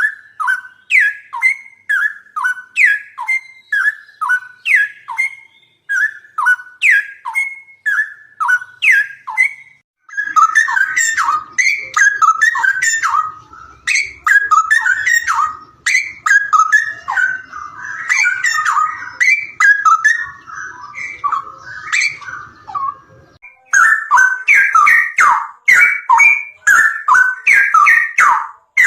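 Songbird calling: a short sliding two-note phrase repeated about twice a second, switching abruptly about ten seconds in to dense, jumbled chirping over a faint low hum, then back to rapid repeated phrases near the end.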